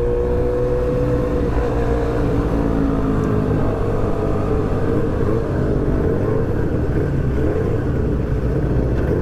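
R6 sport motorcycle engine running steadily while being ridden, its pitch easing down slightly in the first second and a half, then holding over a steady low rumble.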